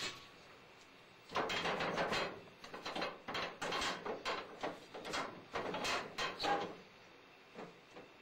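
Old coal furnace being opened and rummaged in: an irregular run of clanks and scrapes starting about a second in and dying away near the end.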